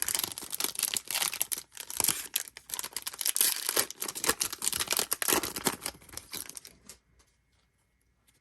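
Plastic trading card pack wrapper being torn open and crinkled in the hands, with a dense crackling that stops about seven seconds in.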